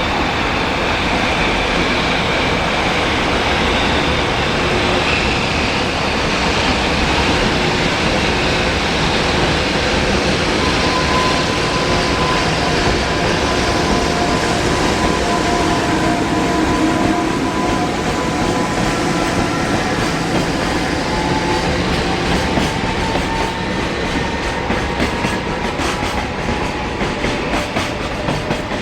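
Japanese high-speed container freight train of Koki container flatcars passing close by at speed: a steady loud rumble of steel wheels on rail. The rhythmic clickety-clack of wheels over rail joints grows more distinct near the end.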